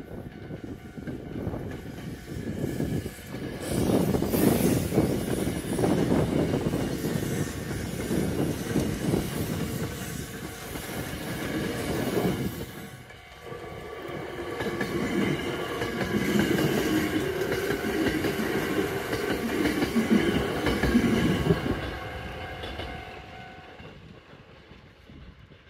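Hankyu 6300 series electric train passing at close range, its wheels clattering over the rail joints, in two loud passes with a short lull between. Steady level-crossing warning bells ring and stop a little before the end as the sound fades.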